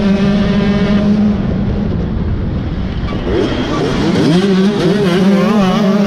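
Motocross bike engine running hard at high revs. It drops off about two seconds in, revs back up, then its pitch wavers up and down as the throttle is worked.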